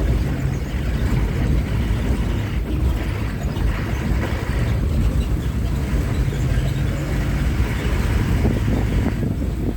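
Bus engine and road noise while driving: a steady low rumble.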